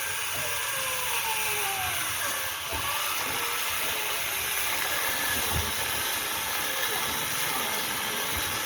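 Electric angle grinder fitted with a chainsaw attachment, running steadily with a continuous hiss-like noise and a slightly wavering motor pitch.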